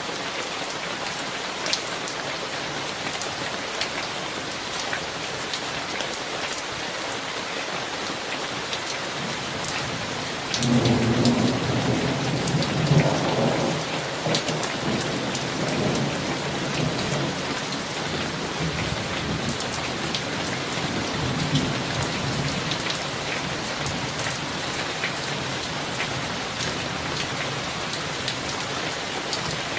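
Steady rain falling on surfaces, with scattered drop ticks, and a roll of thunder that starts suddenly about a third of the way in, peaks a couple of seconds later and rumbles away over about ten seconds.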